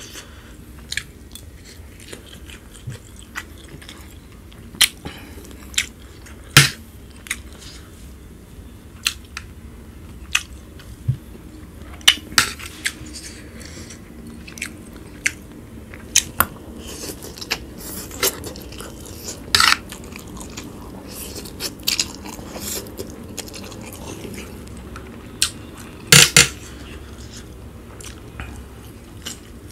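Close-miked chewing and mouth sounds of someone eating spicy instant noodles, with irregular sharp wet clicks and smacks, the loudest about six seconds in and near the end.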